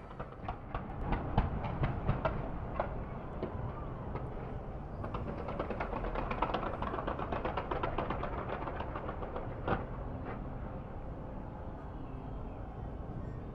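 Fireworks going off: a run of sharp bangs and dense crackling, thickest in the middle, over a steady low rumble.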